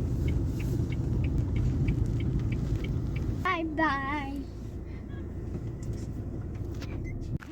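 A vehicle running, with a steady low rumble and a light regular ticking that eases after about three seconds. Midway there is a brief wavering high voice, about a second long.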